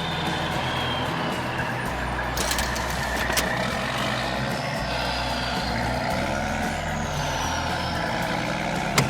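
Truck engine sound effect running steadily, with a few short clicks, the sharpest near the end.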